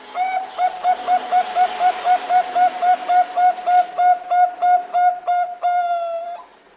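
Zebra dove of the Bangkok perkutut strain calling: a rapid run of about two dozen short cooing notes, roughly four a second, ending in one longer drawn-out note that cuts off suddenly.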